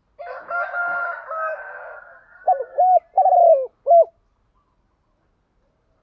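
A rougher, drawn-out call for about two seconds, then a spotted dove cooing a three-note phrase of clear, arched notes.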